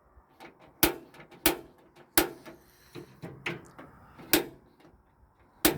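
Igniter on a natural-gas barbecue grill clicking repeatedly while the burner, turned to high, has not yet lit. The clicks are sharp and single, coming about once a second at uneven spacing, with the loudest near the start and near the end.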